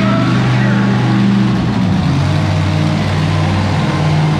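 Monster truck engine running loud and steady, its pitch dropping as the revs fall about two seconds in.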